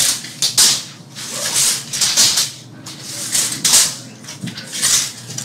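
A series of short rustling, scraping strokes, several in a row at an uneven pace.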